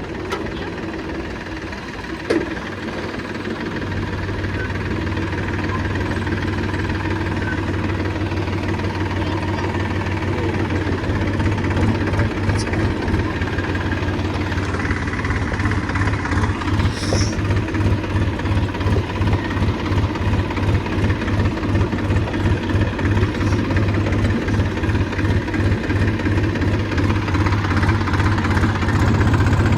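A vehicle engine running with a low, even beat that grows steadily louder, the pulsing becoming distinct about a third of the way in.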